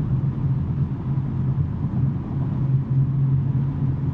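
BMW M3 G80's twin-turbo inline-six, fitted with a non-resonated J-pipe exhaust, running at a steady engine speed with a continuous low drone.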